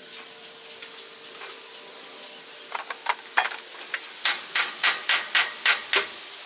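Hand-tool work on metal: a few scattered clicks, then an even run of about eight sharp, ringing metallic strikes, roughly four a second, over a faint steady hum.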